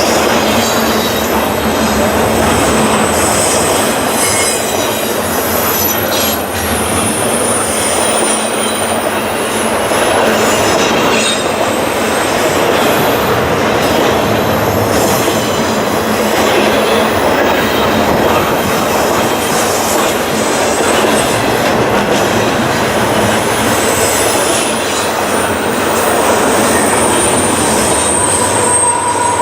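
Cars of a double-stack container freight train rolling past at speed: a steady rumble of steel wheels on rail, with high, thin wheel squeal and occasional clicks of wheels over rail joints.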